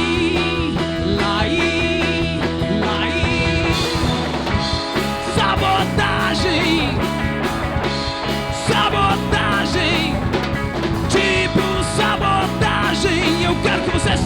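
Rock band playing a full-band section with drum kit, bass and guitar over a steady beat, with wavering high melody lines on top.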